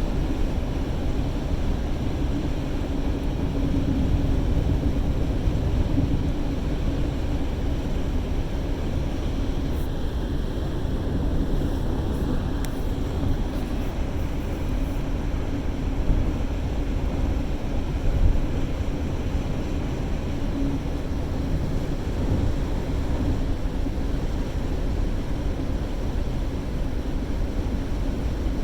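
Car driving: a steady low rumble of engine and road noise with a faint steady hum, and a few faint clicks near the middle.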